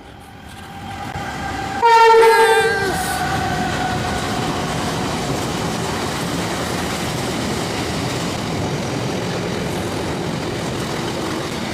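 Diesel locomotive horn sounding one loud blast of about a second, several tones together, sagging in pitch as it ends. A train then runs past with a steady rumble and rail clatter.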